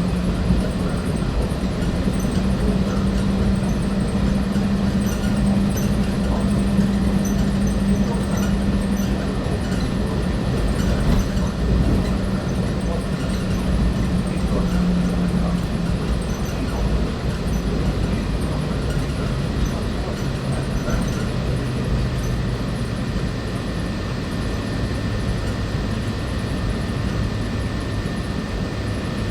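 Walt Disney World monorail running, heard from inside the car: a steady rumble and rush with a motor hum that steps down in pitch about halfway through.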